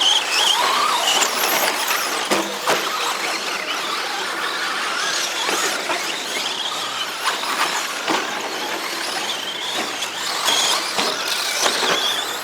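Several 2WD short course RC trucks racing on a dirt track, their electric motors whining and rising and falling in pitch as they accelerate and brake. Tyres scrabble on the dirt, with scattered short knocks from landings and contact.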